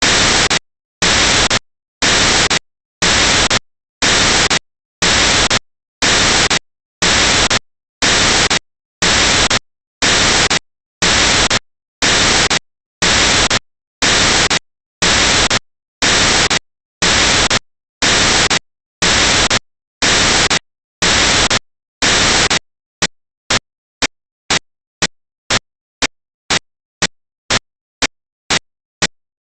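Loud, harsh hiss-like noise in evenly spaced bursts, about one a second, turning to shorter bursts about twice a second near the end.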